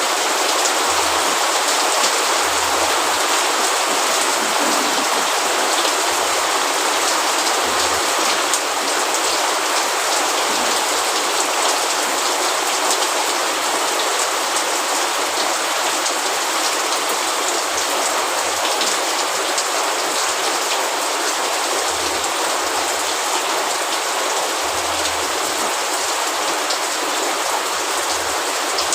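Steady rain falling, a dense even hiss of raindrops with fine individual drop patter.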